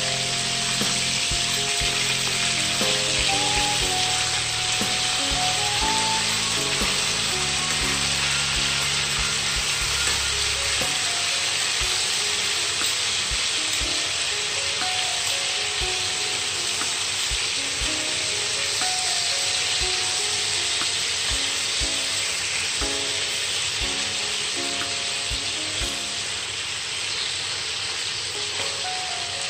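Marinated chicken pieces sizzling steadily in hot oil in a frying pan, with scattered clicks of metal tongs turning them. Background music with a melody plays underneath.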